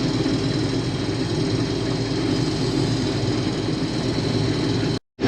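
Case IH combine running steadily while harvesting wheat, a dense, even machine drone of engine and threshing works, broken by a brief dropout near the end.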